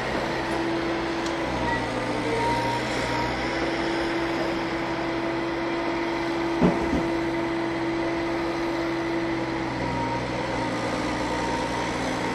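Electric locomotive and passenger coaches running slowly through a station throat, with a steady hum and a sharp clack from the wheels about six and a half seconds in.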